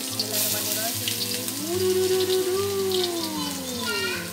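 Chopped garlic and shallots sizzling in hot cooking oil in a stainless steel wok, a steady frying hiss.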